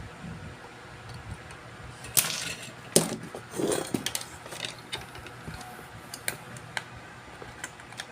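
Small hard objects being handled on a workbench: a sharp knock about two seconds in, a click a second later, a brief scrape, then scattered light clicks and clinks.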